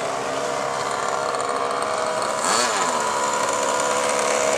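Small engine of a radio-controlled model aircraft running steadily at a high, buzzing pitch, with a brief swoop in pitch about halfway through.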